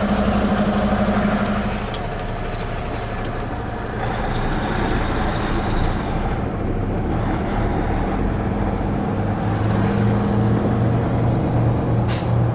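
Tractor-trailer diesel engine running steadily. Its note eases off about two seconds in and grows louder again in the second half, with a brief hiss near the end.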